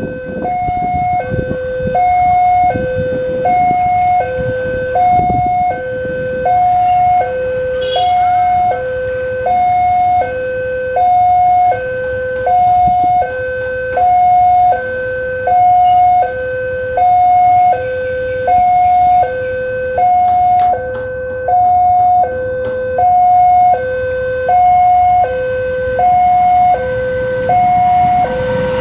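Railway level-crossing warning alarm sounding: an electronic two-tone signal alternating steadily between a low and a high tone, each held for about three quarters of a second. It signals that a train is approaching and the barriers are closing.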